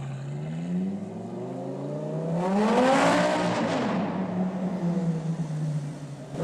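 Lamborghini Gallardo LP570-4 Superleggera's V10 through a custom titanium exhaust, accelerating. The engine note rises to its loudest, highest point about three seconds in, then drops back to a steady lower note.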